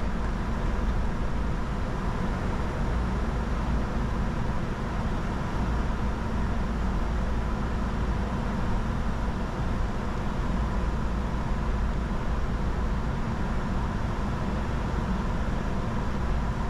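Steady flight-deck noise of a Bombardier Challenger 605 business jet in flight on approach: a constant low rumble of airflow and engines, with a faint steady tone running through it.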